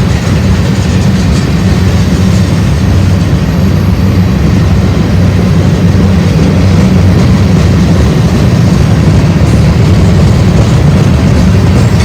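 Freight train rolling past at close range: a loud, steady, heavy rumble of wheels and cars on the rails.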